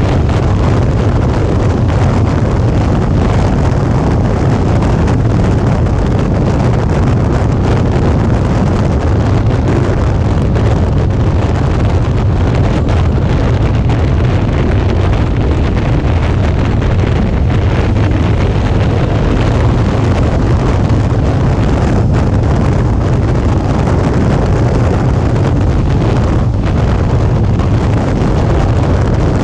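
Steady wind noise on the action camera's microphone at riding speed, over the low drone of a Suzuki V-Strom 650's V-twin engine and road.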